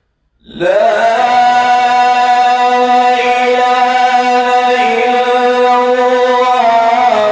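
Male Quran reciter's voice holding one long melodic note, starting about half a second in and held steady, with a slight change in pitch near the end.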